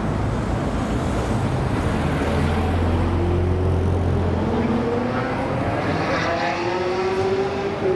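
American car's engine running with a low, steady rumble, then rising steadily in pitch for the last five seconds as the car accelerates.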